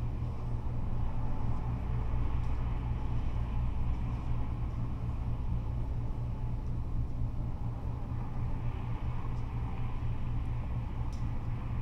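Freeway traffic, cars and trucks passing in a steady low rumble.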